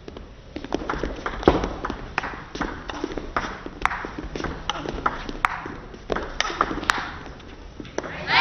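Table tennis rally: the celluloid-type ball clicking off the players' rackets and bouncing on the table in a quick, fairly even rhythm, a racket hit about every three-quarters of a second for some six seconds. Crowd applause swells up right at the end as the point is won.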